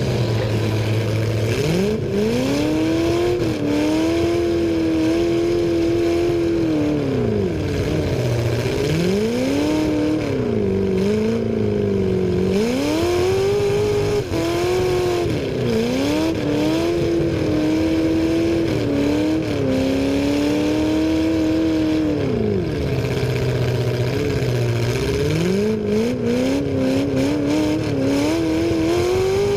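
Demolition derby car's engine revving hard again and again. The pitch climbs and holds high for a few seconds, then drops back to idle several times.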